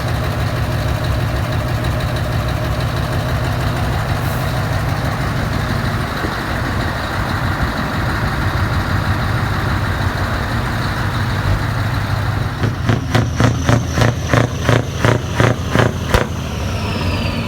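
Truck diesel engine running steadily at idle. Near the end comes a rapid series of about a dozen short sharp pulses, roughly four a second, followed by a high tone falling in pitch.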